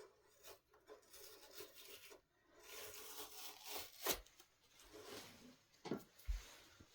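Cloth rubbing on a solid-wood dining table in several short wiping strokes, with a sharp knock about four seconds in and dull thumps near the end.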